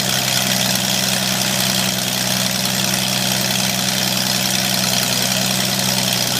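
Corvair air-cooled flat-six aircraft engine idling steadily with the propeller turning, on its first run; the ignition timing sounds close but a little late to those listening.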